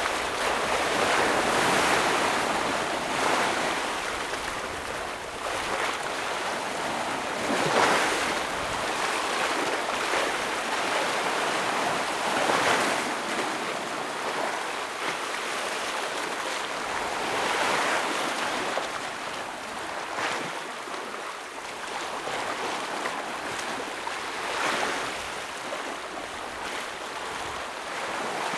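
Ocean waves breaking against rocks: a continuous wash of surf that swells into a fresh crash every few seconds, the loudest about eight seconds in.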